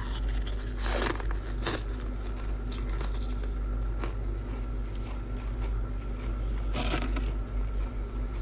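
Chest-freezer frost ice being bitten and crunched close to the microphone: loud crunches about a second in and again near the end, with smaller crackles between, over a steady low hum.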